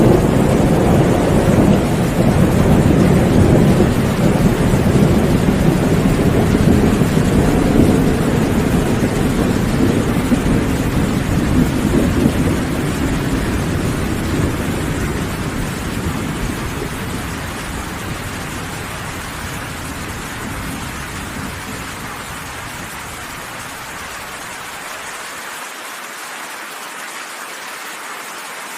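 Heavy rain falling steadily while a long roll of thunder rumbles loudly and slowly dies away over about twenty seconds, leaving only the hiss of the rain.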